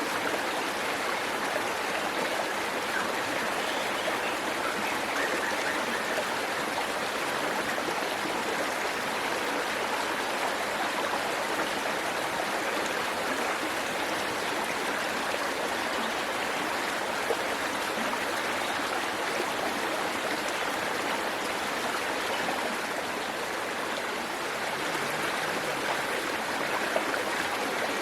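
Waterfall and its stream running: a steady rush of falling and flowing water.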